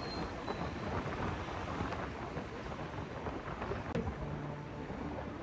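Wind rumbling and buffeting over the phone's microphone on a moving Honda SP160 motorcycle, with the bike's single-cylinder engine running underneath. A brief sharp click about four seconds in.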